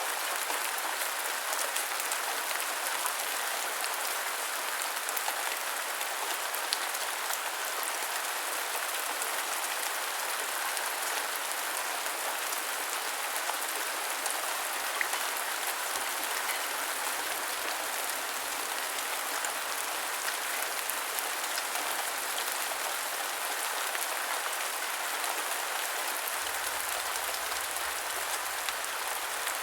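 Heavy rain falling steadily, a dense hiss of drops with many small sharp drop ticks on a hard surface.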